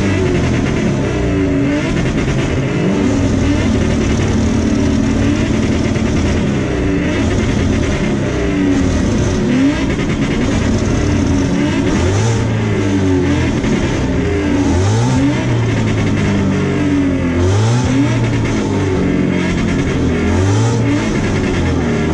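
Two car engines revved together, over and over, their pitch rising and falling and overlapping continuously in a head-to-head revving contest.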